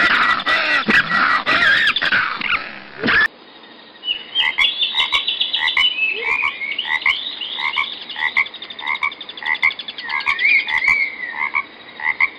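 Fox calls for the first three seconds, cut off sharply. After a short pause, frogs croak in a chorus: short calls repeated about twice a second, with higher trilling calls over them.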